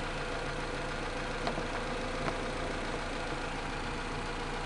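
1992 Honda Accord's four-cylinder engine idling steadily, warmed up to operating temperature, with two faint clicks about a second and a half and two seconds in.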